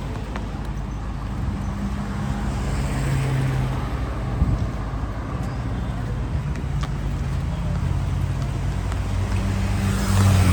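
Street traffic: motor vehicle engines running with a steady low hum. Near the end a vehicle passes close, louder, its engine note dropping as it goes by.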